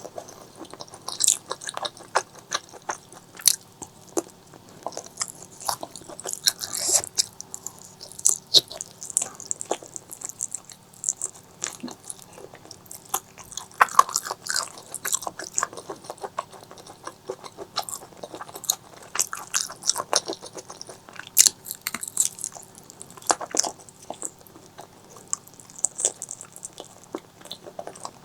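Close-miked eating sounds: a person biting and chewing food, with many irregular crunchy, crackling bites and mouth clicks.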